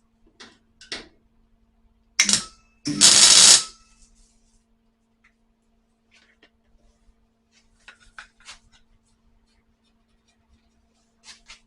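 Two short crackling tack welds joining a new steel patch panel: a brief one about two seconds in, then a louder one lasting under a second. Light metallic clicks and taps come before and after, over a faint steady hum.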